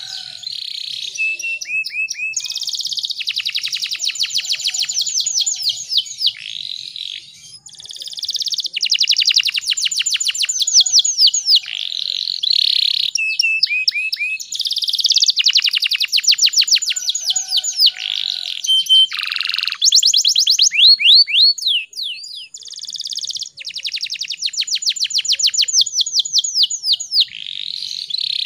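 Domestic canary singing: long rolling trills of fast repeated high notes in phrases a few seconds long, broken by short pauses, with some lower falling notes and brief whistles.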